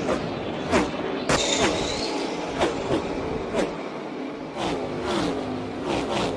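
NASCAR Cup Series stock cars racing past one after another in a close pack, their V8 engines at full throttle. Each car's engine note drops sharply in pitch as it goes by, about ten cars in quick succession.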